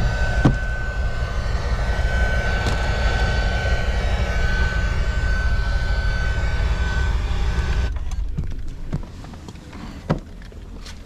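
A 6.2-litre V8 engine running steadily, with a thin high whine over the rumble, then shut off about eight seconds in, followed by a couple of light clicks and a knock.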